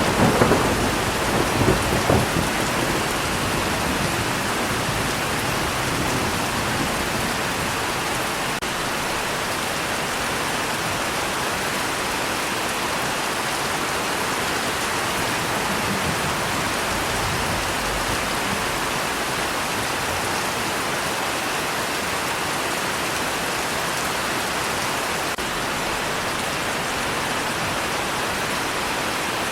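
Steady heavy rain falling, with a low roll of thunder in the first couple of seconds that then fades into the rain.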